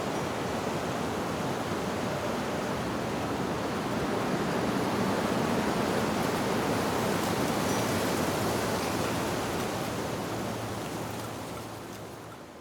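Steady rushing noise of wind blowing through leaves, fading away over the last couple of seconds.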